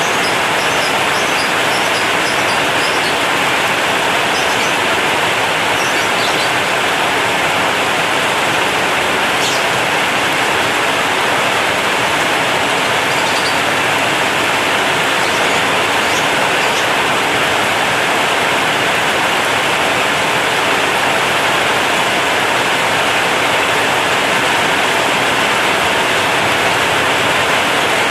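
Heavy rain falling steadily on a corrugated zinc roof, a dense, even hiss. A few faint high chirps come through it in the first few seconds.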